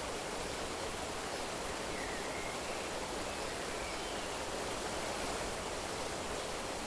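Steady rush of flowing water, with a few faint, short, high chirps.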